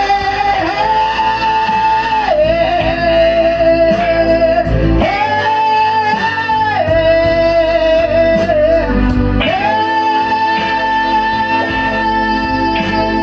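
Blues-rock band playing live, with a lead line of long held notes that slide up and down between two pitches over guitars and a steady low end.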